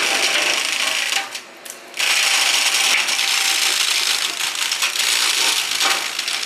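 Excavator-mounted flail mower shredding brush: a dense, loud rattling clatter of blades and chips, which drops off briefly about a second and a half in and then carries on.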